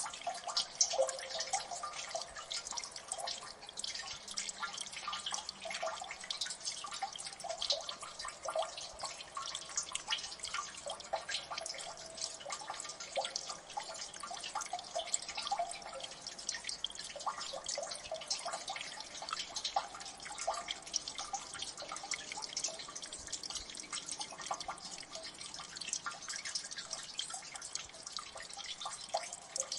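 Water dripping in a gully: many drops falling at once in a dense, irregular patter of small plinks, with no let-up.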